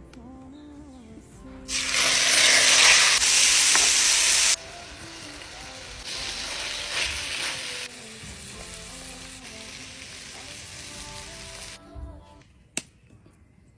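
Food frying in hot oil: a loud sizzle starts about two seconds in, then drops down in steps and fades out near the end. Background music plays throughout, and there is a single sharp click near the end.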